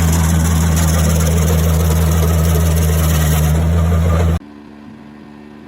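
Stump grinder's engine running steadily at full power, with a dense hiss over its low drone as the cutting wheel works. About four seconds in it cuts off abruptly, leaving a much quieter steady engine hum.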